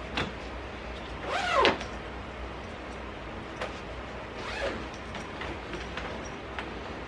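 A zipper pulled in a quick run about a second and a half in, its pitch falling as it goes, with a second, fainter pull a few seconds later. Small handling knocks and clicks come in between.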